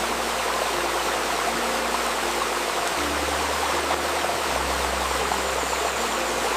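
A babbling river's steady rush, mixed with soft, sustained low synth tones that shift pitch every second or two. This is a 528 Hz 'solfeggio' healing tone layer.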